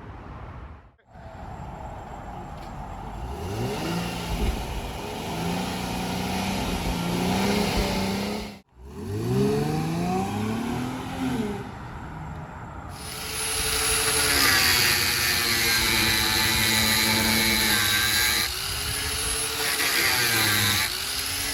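Infiniti M35 engine revving, its pitch climbing, holding and falling back in several pulls. About 13 seconds in, a power cutting tool starts slicing through a car's chassis metal, a loud steady whine and hiss that sags in pitch near the end as it bites.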